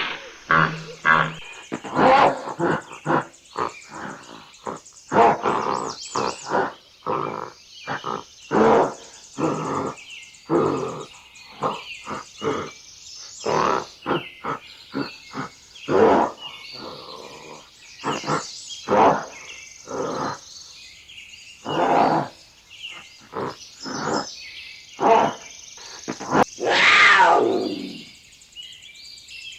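A wild animal calling over and over in short, harsh, loud calls. Near the end come two longer calls that slide down in pitch.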